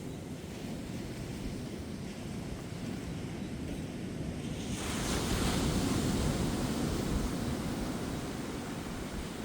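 Ocean surf washing onto a beach: a steady low rumble of surf, then about halfway through a wave breaks and its hiss swells before fading away.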